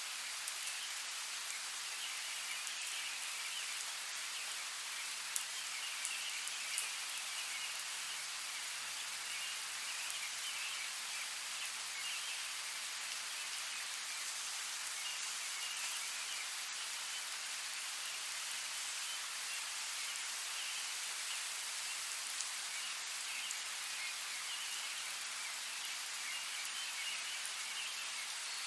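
Steady rain falling, an even hiss, with a few sharper drop ticks about five to seven seconds in.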